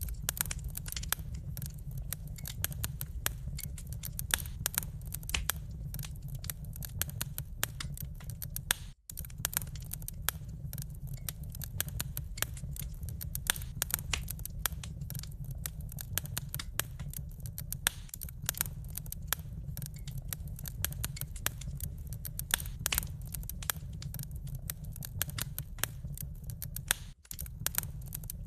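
Wood fire burning in a fireplace, crackling with many sharp pops and snaps over a steady low rumble. The sound cuts out for a moment twice, once about a third of the way in and again near the end.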